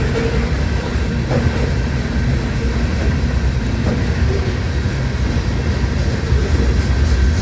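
CN freight train of sand cars rolling past: a steady, heavy low rumble of wheels on rail with a few light clicks.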